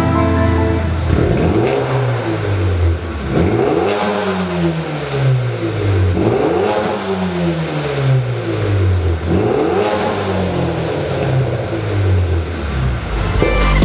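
Mercedes-AMG A35's turbocharged four-cylinder engine through a Milltek cat-back race exhaust, idling and then revved about four times, each rev rising quickly and falling back more slowly.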